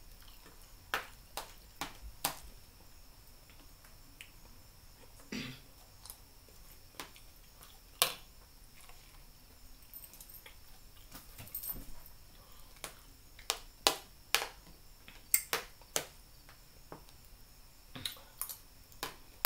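Mouth sounds of someone eating a taco: irregular sharp smacks and clicks of chewing, some louder than others.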